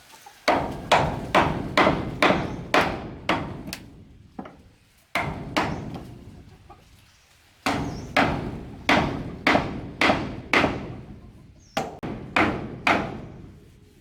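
Hammer blows on wood, about two strikes a second, coming in four runs with short pauses between them.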